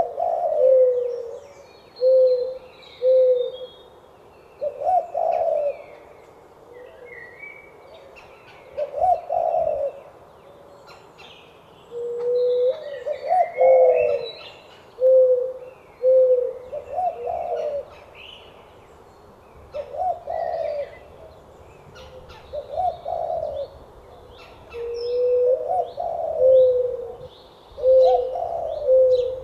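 Doves cooing: low coos in phrases every couple of seconds, some short and level, others swelling up and falling back. Small birds chirp and twitter faintly over them.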